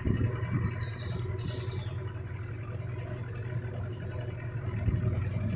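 Motorboat engine running steadily with a low drone, with a few brief high squeaks about a second in.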